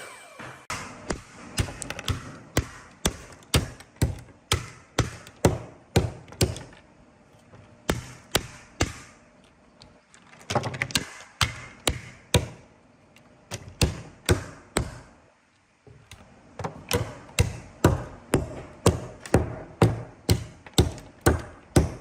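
Repeated hand-struck blows on wood, about two a second, each a sharp knock, with a short pause a little after the middle.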